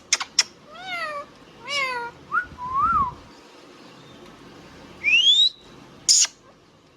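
Indian ringneck parrot vocalizing: a couple of sharp clicks, two drawn-out falling calls, then short chirps and an arched whistle. After a short lull comes a rising whistle about five seconds in, followed by a sharp click.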